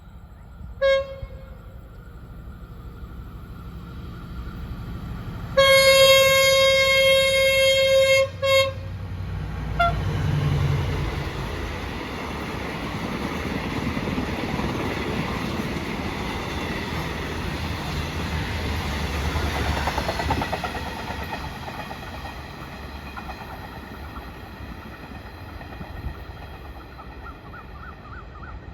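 Train sounding its horn as it approaches: a short blast, then a long one and a brief final toot. The train then runs past with a heavy rumble and wheel clatter that slowly fades.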